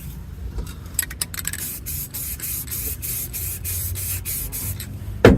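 Spray paint hissing onto a steel M1 helmet shell in a quick series of short bursts. A sharp knock sounds just before the end.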